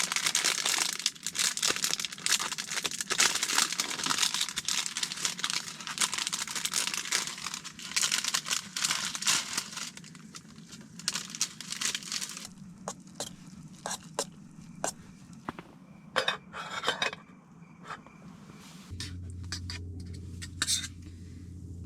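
Sleeping bag rustling and crinkling as someone settles into it with a hot-water bottle: dense for about twelve seconds, then in short separate rustles. A low steady hum comes in near the end.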